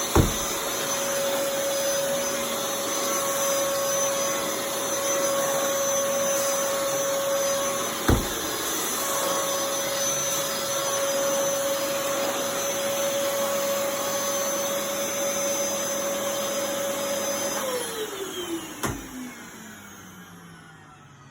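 Dyson DC23 Animal canister vacuum running steadily with a high whine, with sharp knocks at the start and about eight seconds in. Near the end it is switched off and the motor winds down, its pitch falling away.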